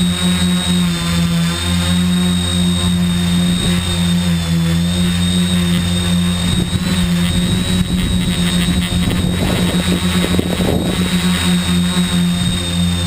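Tricopter's three electric motors and propellers running steadily in flight, a low drone with a thin high whine. Wind buffets the microphone in gusts through the second half.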